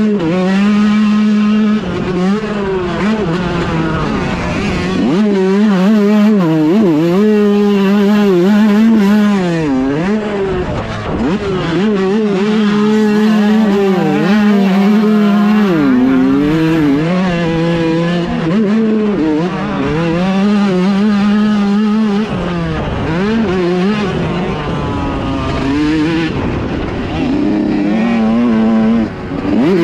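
Dirt bike engine revving, its pitch rising and falling continuously as the bike is ridden and shifted.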